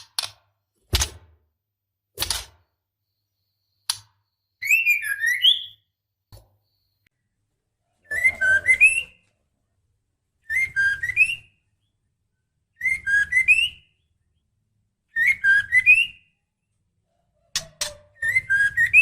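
Female white-rumped shama calling to males in breeding condition: a short phrase of rising whistles with chattering notes, repeated about every two to three seconds. Sharp clicks come between the calls in the first four seconds and once near the end.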